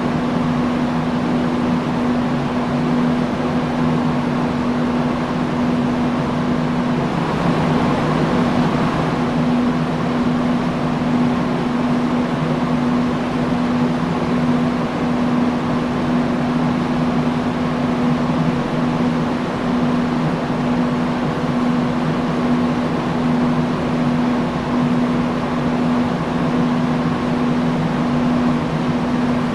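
Industrial fan running steadily: an even rush of moving air over a low motor hum that holds one pitch, with a slight swell in the airflow about seven seconds in.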